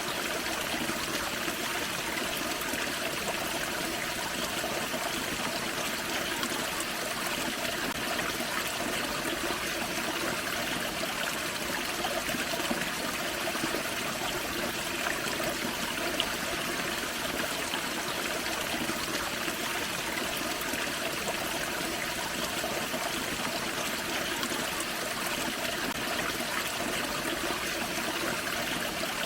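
Small forest waterfall and creek water splashing and trickling steadily.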